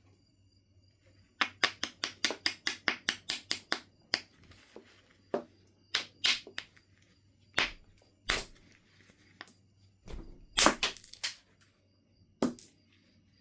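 Knife River Flint being knapped: a quick run of about a dozen light, sharp strokes on the stone's edge, then single sharper strikes every second or so, a few with a deeper knock.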